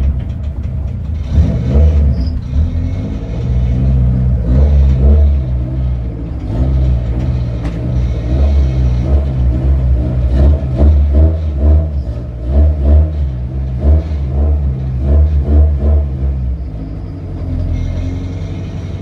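Turbocharged Honda Civic EF sedan's four-cylinder engine idling, heard from inside the cabin as a steady low rumble that swells and eases unevenly.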